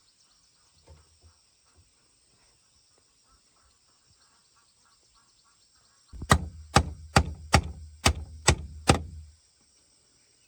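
Seven sharp blows on wood in quick, even succession, about two and a half a second, starting a little past the middle and stopping after about three seconds. Faint chirping of insects goes on behind.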